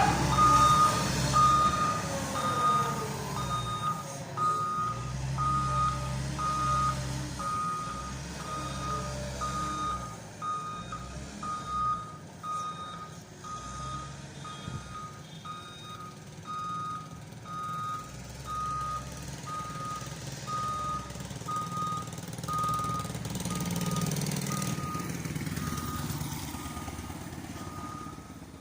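CAT M315D2 wheel excavator's warning alarm beeping evenly, about three beeps every two seconds, over its diesel engine running with a rumble that rises and falls. The beeps grow fainter near the end.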